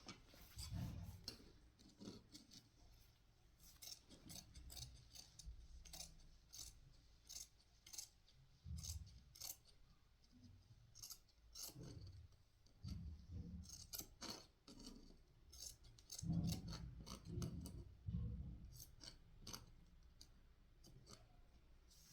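Scissors snipping in a run of irregular, quick cuts, with soft low thuds now and then.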